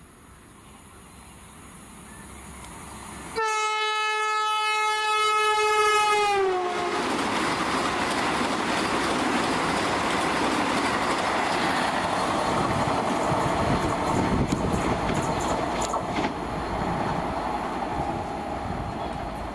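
Vande Bharat Express train approaching at high speed: its horn sounds a single long blast of about three seconds that slides down in pitch as the train goes by. The loud rush and wheel clatter of the passing train set follows and fades near the end.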